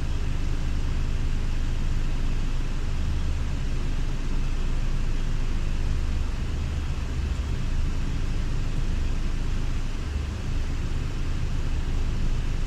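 Scania Irizar i6S coach's diesel engine running with a steady low drone while the coach manoeuvres slowly.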